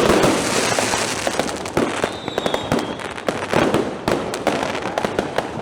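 Fireworks and firecrackers going off in a dense, continuous barrage of bangs and crackling, loudest in a burst at the very start.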